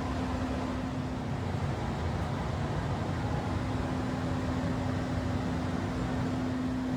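Steady air-conditioning hum with a constant low tone that grows stronger about halfway through.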